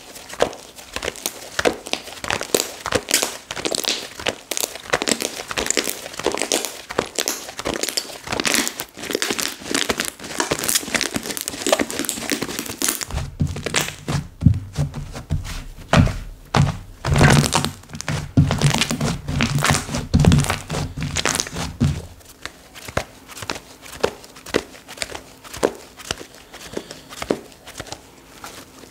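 Slime being squished, pressed and stretched by hand, giving a dense run of small crackling pops and clicks. For several seconds in the middle, dull low thumps come in under the crackling.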